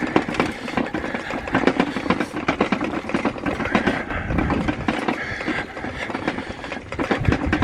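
Bicycle being ridden, with rapid clicking and rattling over a low rumble.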